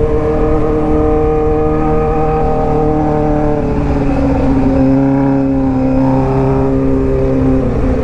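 Suzuki GSX-R600 K8's inline four-cylinder engine running steadily under way, its pitch easing down a little around the middle, with wind rushing past the microphone.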